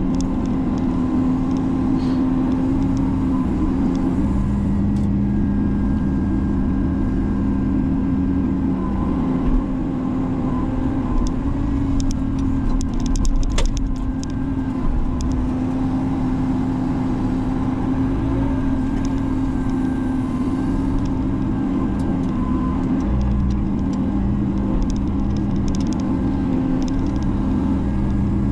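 Menzi Muck spider excavator's engine running steadily under work, its note shifting up and down as the hydraulics take and release load. A few sharp knocks about halfway through.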